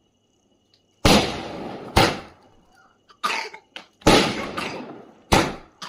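Firecrackers going off, seven sharp bangs at uneven intervals, several trailing off over about a second.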